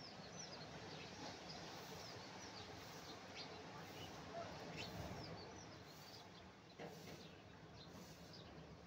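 Birds chirping in many short, quick falling calls over a faint steady wash of surf, with a single soft knock about seven seconds in.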